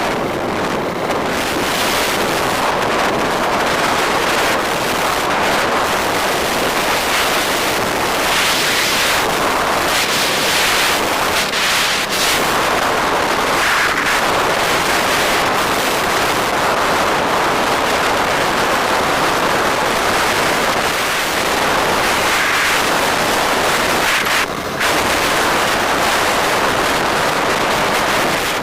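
Steady, loud wind rush on the microphone of a moving motorbike, with road and traffic noise underneath.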